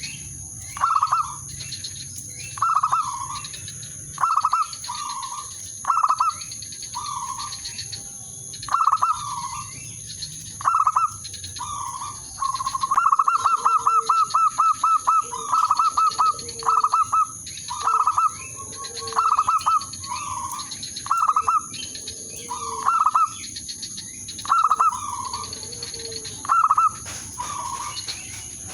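Zebra dove (perkutut) cooing over and over, short phrases every second or two, with a fast run of close-spaced notes about halfway through. Fainter, lower coos join in during the second half.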